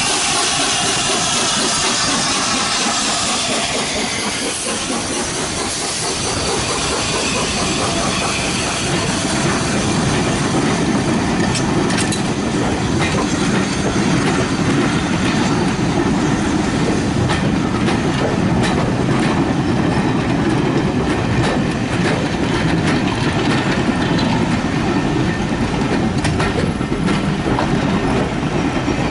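Peppercorn A1 steam locomotive with its passenger train running past. A hiss falls in pitch at first, then there is a rumble with the rapid clickety-clack of the coaches' wheels over the rail joints.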